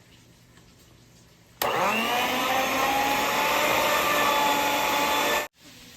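Electric mixer switched on about a second and a half in, whining up to speed and then running steadily while creaming softened butter, before stopping abruptly near the end.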